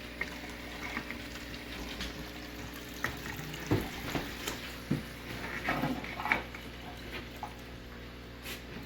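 Water siphoning through a squeeze-bulb-primed aquarium gravel vacuum and its hose, gurgling and splashing with irregular small clicks, busiest in the middle stretch.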